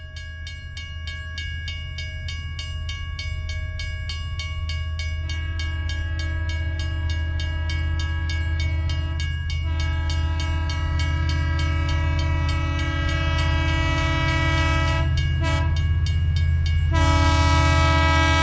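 A train rumbling closer with a steady clickety-clack, its horn sounding in long chord-like blasts from about five seconds in. It grows louder throughout, and the horn is loudest near the end.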